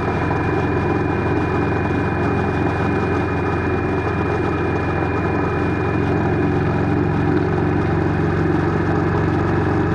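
An engine idling steadily, with an even low hum and a thin high whine that does not change.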